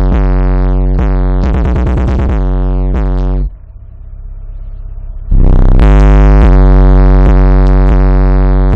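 Bass-heavy electronic synth music played loud through a car sound system with two subwoofers, the deep bass dominating. About three and a half seconds in the music suddenly drops to a low rumble, then comes back at full level with a rising sweep nearly two seconds later.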